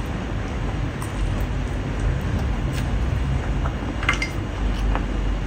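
Chewing sounds of a person eating rice and pork trotter by hand: scattered wet clicks and lip smacks, a cluster about four seconds in, over a steady low rumble.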